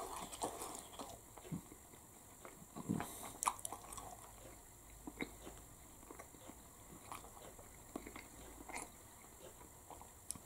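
A person chewing a mouthful of flaky-pastry chicken curry bake: faint, irregular mouth clicks and small chewing noises.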